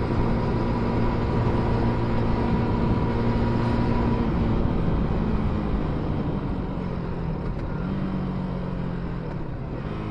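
Benelli Leoncino 250's single-cylinder engine running under way, heard from on the bike. The engine note shifts lower about four seconds in, then rises and drops again near the end as the engine eases off.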